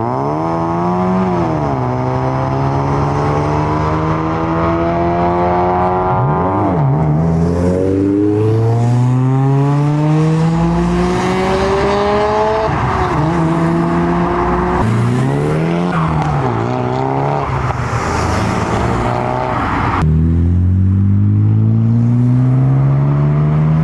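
Modified Japanese cars accelerating hard past one after another. Each engine note climbs steeply, drops sharply at a gear change and climbs again. Near the end there is a sudden switch to another car pulling away with a rising note.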